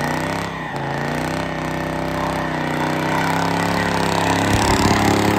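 Chevrolet Caprice wagon's V8 revving hard during a burnout, its pitch wavering, with the rear tire spinning and scrubbing on the asphalt under a rough hiss.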